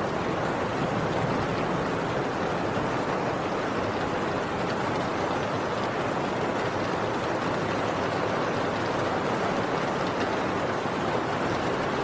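Heavy rain on a tin roof, a steady, even downpour with no distinct thunder.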